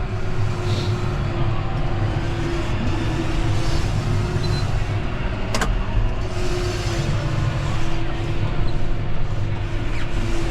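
John Deere 6145R tractor's diesel engine running steadily under load while pushing snow with a front blade: a steady low drone with a faint steady whine above it, and one sharp click about halfway through.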